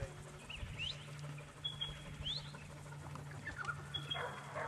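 Birds calling in the open air: short rising chirps repeated about once a second, with a couple of flat whistled notes, over a low steady hum. A brief louder sound comes near the end.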